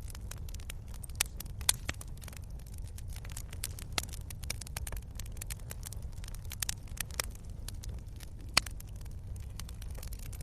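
Wood campfire burning, crackling with many irregular sharp pops and snaps over a steady low rumble; the biggest pops come just under two seconds in and again past eight seconds.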